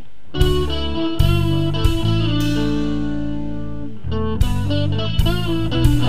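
Instrumental rock music: an electric guitar playing a riff over sustained low notes, with drums, in an old-school rock style.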